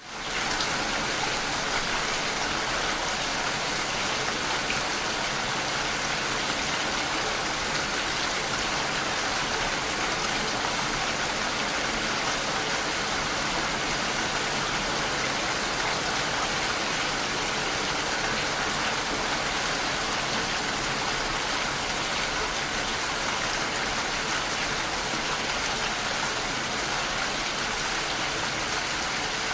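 Steady rainfall, an even hiss of rain pattering on surfaces that holds constant throughout.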